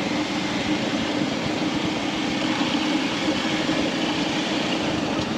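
Motorcycle engine running steadily while riding, with an even rush of wind and road noise over it.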